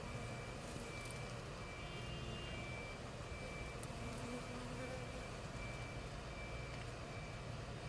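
A steady low hum of honeybees around the open hive, over background traffic, with a faint vehicle reversing alarm beeping at a regular pace at a high pitch.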